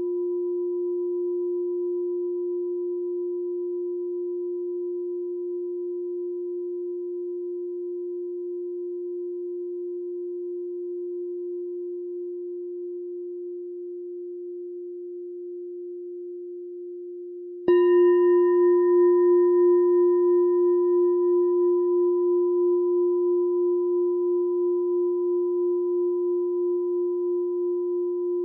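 Meditation bell ringing out with a long, steady, slowly fading hum. It is struck again about two-thirds of the way through: a sharp strike with a brief bright overtone, then the hum swells back and rings on with a slow wavering.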